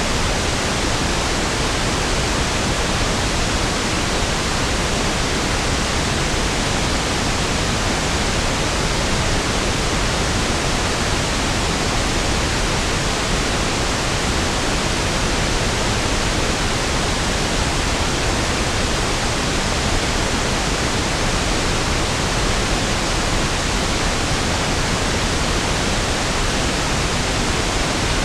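Steady pink noise: an even, unchanging hiss spread across all pitches, with equal energy per octave, so it sounds smoother and deeper than white noise.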